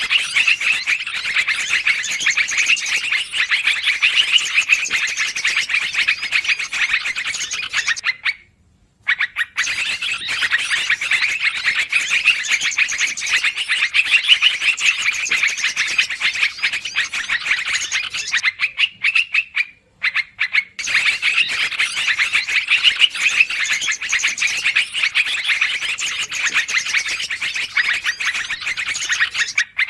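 Bird-lure recording of yellow-vented bulbuls (trucukan) calling noisily: a dense, rapid, continuous chattering. It breaks off briefly twice, about eight seconds in and again near twenty seconds.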